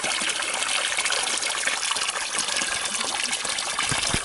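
Steady rush of splashing water, with a couple of low thumps near the end.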